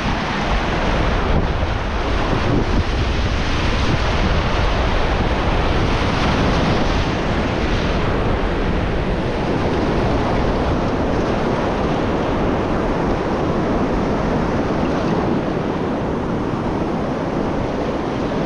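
Whitewater of a creek rapid rushing steadily, with wind noise on the microphone.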